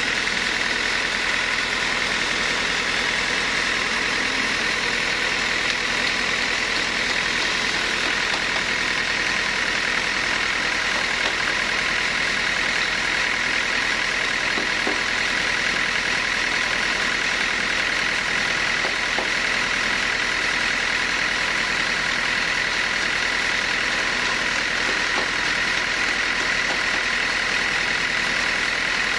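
Sawmill machinery running steadily: a constant engine-like drone with a steady high whine, with no cutting strokes or impacts.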